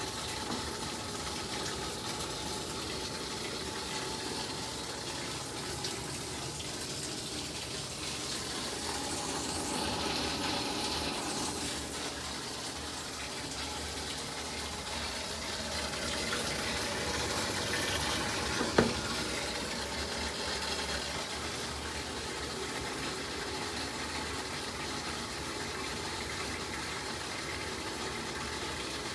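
Water running into a Samsung ActiveWaterJet washing machine as it fills, swelling in level a couple of times, with one sharp click about two-thirds of the way through.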